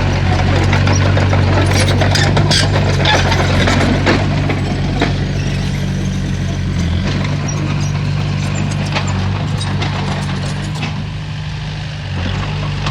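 Heavy diesel engine of earthmoving machinery running steadily under load, with scattered metallic clanks and knocks in the first half.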